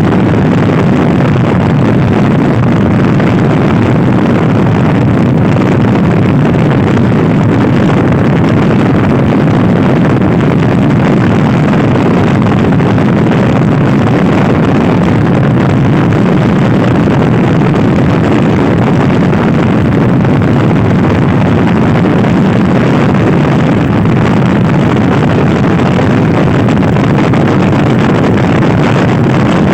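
Stock Honda Scoopy i scooter ridden at speed, its engine running under a steady, loud rush of wind on the microphone.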